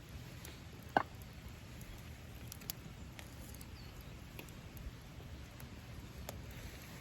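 Wood campfire in a Coleman Fire Disc crackling, with sparse small clicks over a low steady rumble and one sharp pop about a second in.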